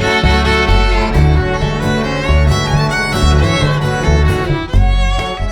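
Instrumental folk break: a fiddle playing the melody over cello, acoustic guitar and a pulsing upright-style bass line.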